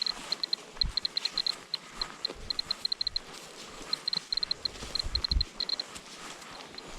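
Handheld radiation dosimeter clicking out counts as short high beeps, all at one pitch, coming irregularly several times a second in clusters and gaps, the sign of a raised radiation level. Two dull low thumps sound about a second in and past five seconds.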